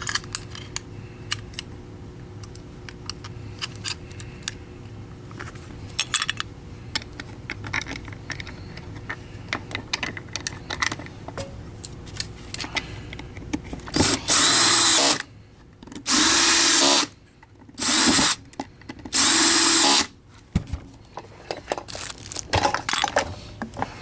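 Small clicks and knocks of parts being handled, then a power drill run in four short bursts about two seconds apart, each at a steady speed.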